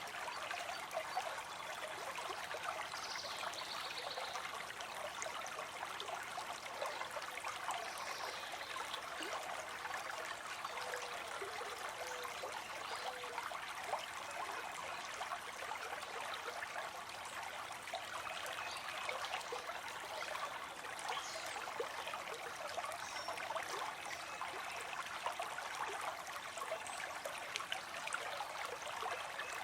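Small stream trickling steadily, a constant light rush of water with many small splashes and no deep rumble.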